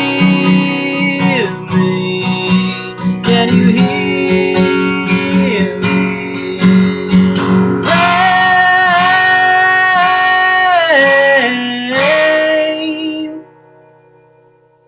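Acoustic guitar strummed under long, held sung notes that slide between pitches, the closing bars of a song. The music stops abruptly near the end, leaving a faint ringing tail.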